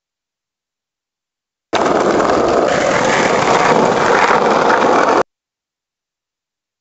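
Loud, dense rattle of skateboard wheels rolling over rough ground, cut in abruptly about two seconds in and cut off just as abruptly about three and a half seconds later, with dead silence either side.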